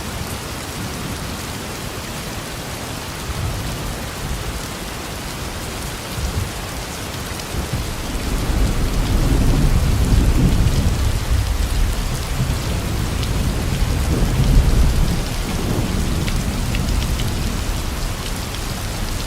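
Steady rain falling, with a low rumble of thunder that builds about eight seconds in and rolls on before easing near the end.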